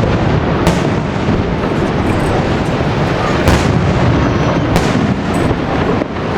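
Aerial fireworks display: a continuous dense rumble of shell bursts, with sharper bangs about a second in, at about three and a half seconds and near five seconds.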